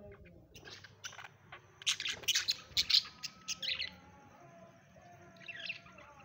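Budgerigars chirping in a quick run of sharp, high calls about two to four seconds in, with a shorter burst of chirps near the end.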